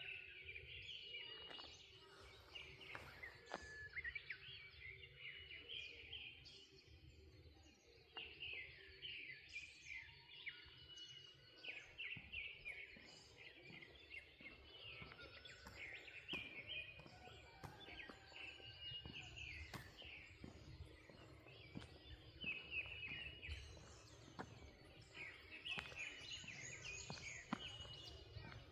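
Several small birds chirping and singing in short repeated phrases, faint, over a low rumble.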